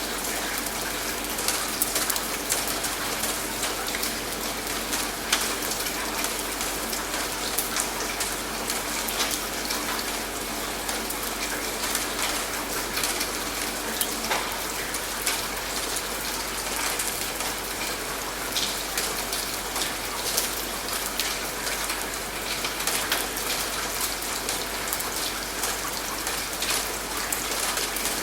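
Steady rain: an even hiss of falling rain with many separate drop hits on a surface.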